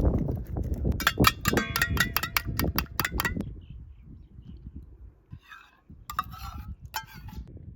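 Metal cookware and utensils clinking and knocking together in a quick run of ringing clinks, then a few softer knocks near the end.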